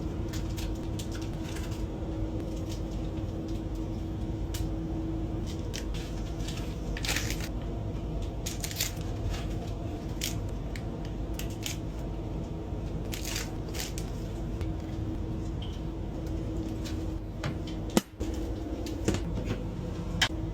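Steady running hum inside a high-speed train's cabin, with scattered light clicks and rustles of a boxed meal and its packaging being handled.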